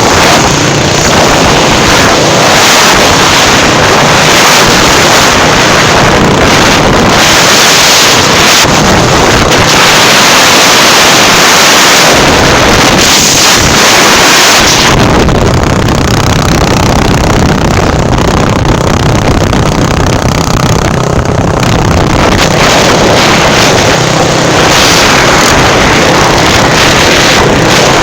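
Motorcycle engine running under heavy wind noise on the microphone. About fifteen seconds in, the wind noise eases and the engine's steady low note stands out.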